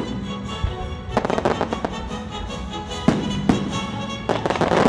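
Fireworks banging and crackling over a live orchestra playing sustained notes. There are clusters of sharp crackles about a second in, a bang at about three seconds, and a dense crackling burst near the end.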